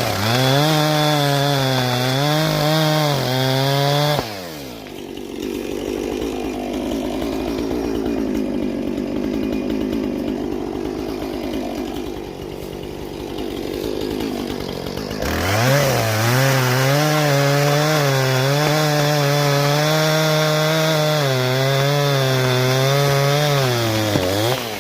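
Chainsaw running at high revs, its pitch wavering as it cuts into the wind-toppled pine. About four seconds in it drops to a lower, rougher sound for roughly eleven seconds, then revs back up and falls away near the end.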